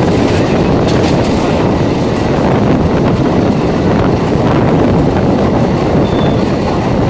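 Running noise of an EMU suburban train heard from on board: a steady, loud rumble of the wheels on the track.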